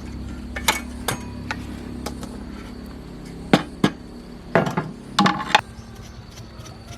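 Metal hand tools clinking and tapping against metal parts: a few separate ringing strikes, then a quicker cluster of knocks and clinks a little after halfway.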